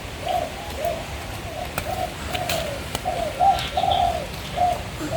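A bird calling nearby: a long run of short, arched, low notes, about three a second.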